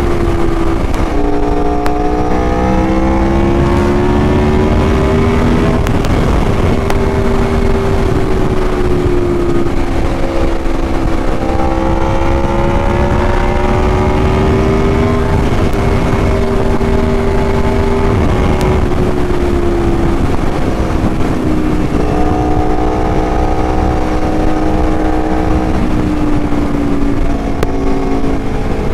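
Aprilia Tuono sport motorcycle engine running at road speed under steady throttle, its pitch rising and falling as the rider rolls on and off. There is a sudden drop in pitch about a second in and again near two-thirds of the way through, heard over steady wind rush.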